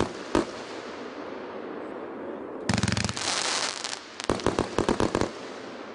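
Multi-shot firework cake firing: a single sharp bang near the start, a dense burst about two and a half seconds in, then a rapid string of about ten bangs lasting about a second.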